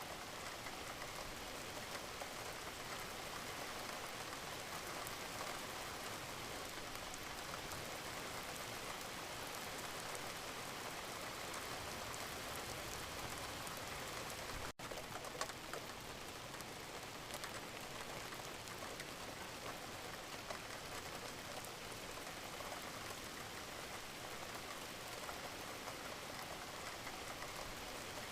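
Wood fire crackling in a fireplace: a steady hiss of burning with many small, sharp snaps and pops. There is a momentary break in the sound about halfway through.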